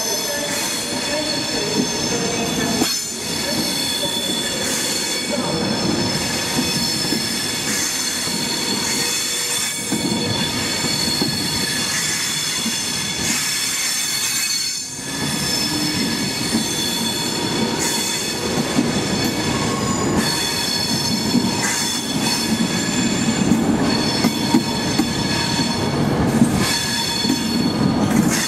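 Virgin Trains Class 390 Pendolino electric train coming slowly into the platform. Its wheels give several steady high-pitched squeals over the constant rumble of the carriages on the rails.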